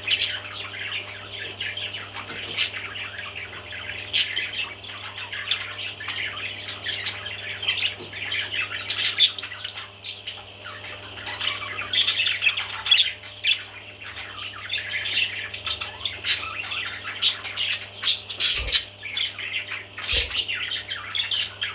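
Baby parrots chirping and squawking in a continuous chatter, with a few sharp clicks.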